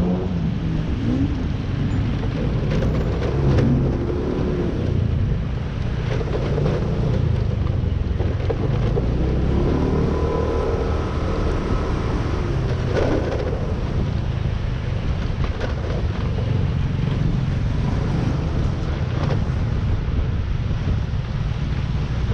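Riding on a motorcycle in traffic: steady wind rush on the camera microphone over the engine and the surrounding traffic. A few rising and falling engine notes come through near the middle.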